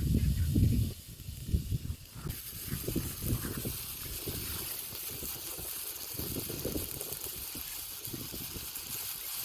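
Minced meat and onions frying in a pan, a steady sizzling hiss that grows stronger a little over two seconds in. Low rumbles and knocks sound in the first couple of seconds, and fainter knocks follow.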